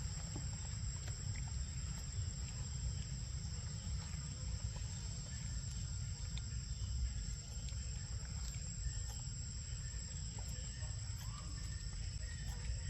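Steady high-pitched drone of insects, with a low rumble underneath and a few faint ticks.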